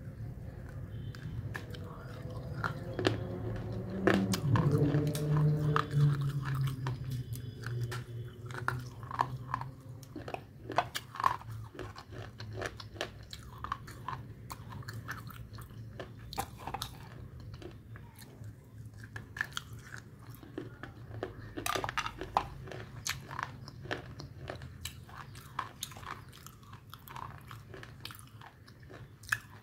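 Close-up biting and chewing of a dry, crunchy slab coated in white powder, with many short crunches throughout. A brief hummed voice sounds about three to seven seconds in.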